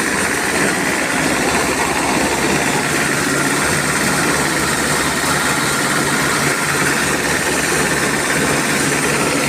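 Car engine running steadily as the power unit of a corn thresher, with the thresher's drum and drive running along with it.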